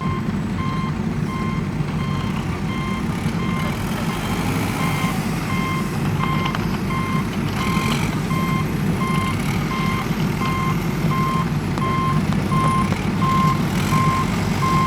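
Truck reversing alarm beeping steadily, about two beeps a second, over the continuous low rumble of a running engine.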